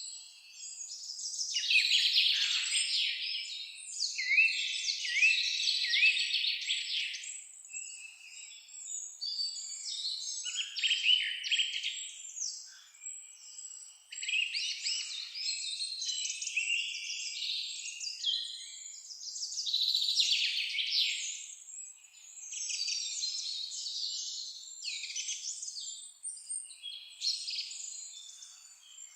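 Songbirds singing together in a dense, overlapping chorus of rapid trills and chirps, swelling and fading in waves every few seconds.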